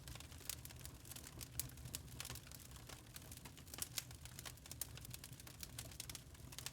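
Log fire crackling in a fireplace: irregular sharp snaps and pops, several a second, over a steady low rumble of burning.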